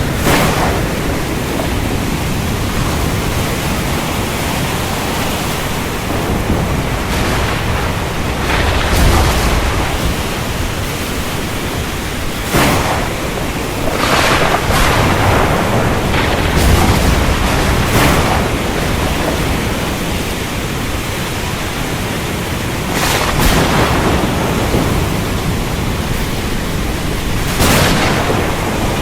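Thunderstorm: steady heavy rain and wind, with low rolls of thunder about nine seconds in and again past the middle, and a series of short, sharp thunder cracks scattered throughout.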